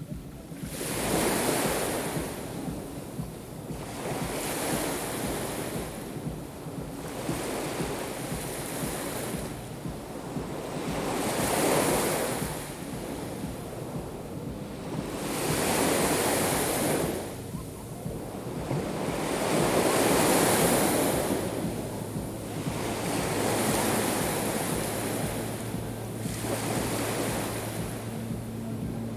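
Sea waves breaking on the shore one after another, each surge building and washing back every three to five seconds, with wind buffeting the microphone.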